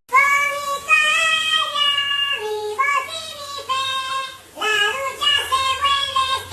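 A high-pitched voice singing a short melody in held notes that step up and down in pitch, starting suddenly.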